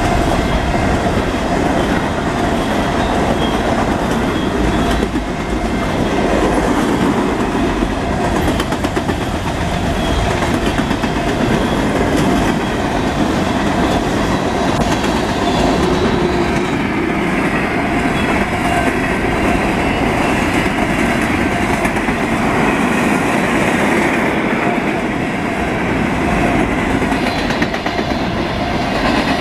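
Freight train of covered hopper and tank cars passing, its wheels running steadily on the rails.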